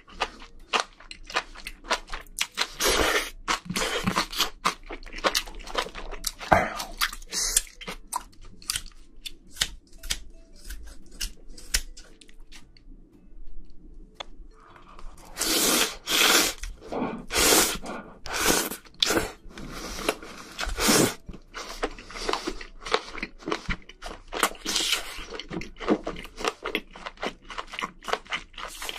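Close-miked eating: crunchy bites and wet chewing of spicy braised seafood, a busy run of crunches, a quieter lull of a few seconds near the middle, then a run of louder bites.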